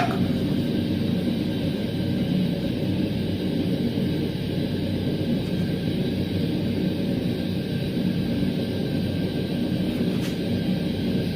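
Blacksmith's forge running: a continuous low rushing noise with a faint steady hum.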